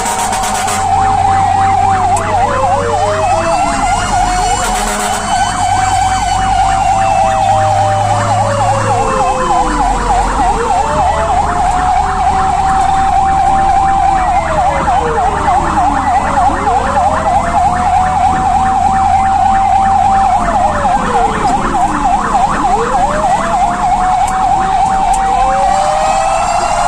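Fire engine siren running continuously: a slow wail rises, holds and falls about every six seconds, with a fast warbling yelp laid over it. The truck's engine rumbles low underneath.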